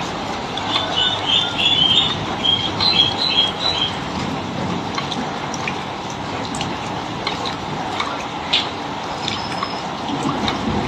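Bulbuls chattering in a quick run of short high notes for the first few seconds, over a steady hiss of falling water with scattered drips.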